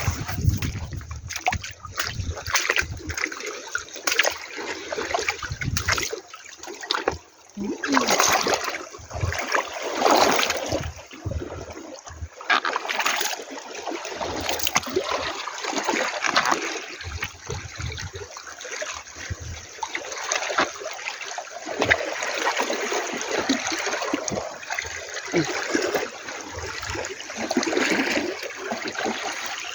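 Seawater splashing and washing at the shore in irregular surges, with occasional low thumps.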